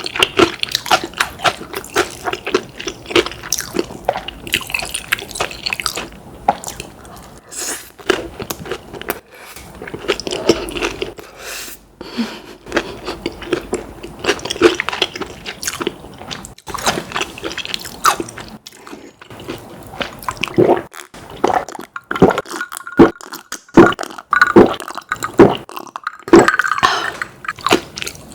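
Close-miked eating: a person chewing and biting food, with irregular wet smacking and crunching clicks.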